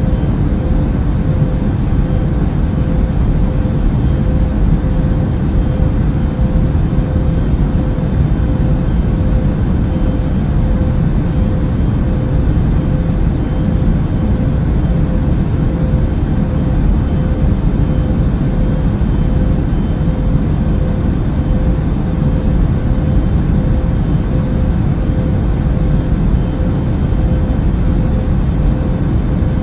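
Airbus A380 cabin noise in cruising flight: a steady deep rumble of engines and airflow, with a faint steady hum over it.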